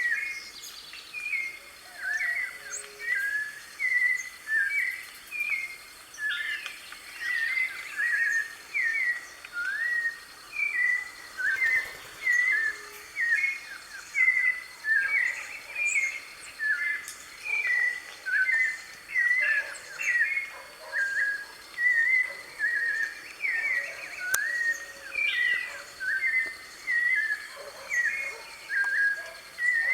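White-necked thrush (sabiá-de-coleira) singing steadily: short phrases of quick notes that jump in pitch, about one phrase a second, one after another.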